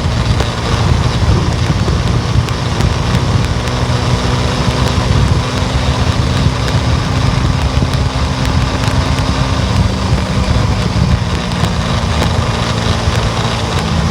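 Steady car engine hum and road noise from a car being driven.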